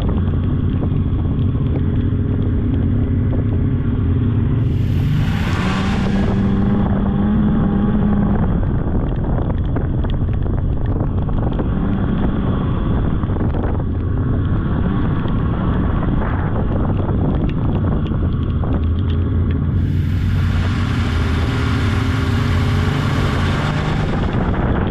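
Polaris snowmobile engine running steadily under way, its pitch rising and easing with the throttle. Twice a rush of wind noise sweeps over the engine, about five seconds in and again near the end.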